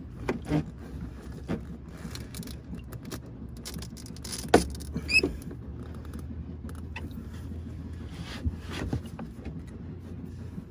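Hands and tools working a tight oil filter loose from a car engine: scattered metallic clicks, scrapes and knocks, the loudest about four and a half seconds in, followed by a short squeak.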